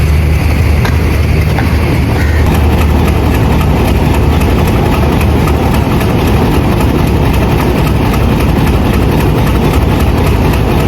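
Diesel locomotive engine running with a steady low hum, heard close up.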